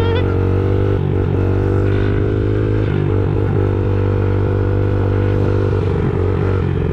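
Small 50cc dirtbike engine running at a steady pitch while the bike is ridden.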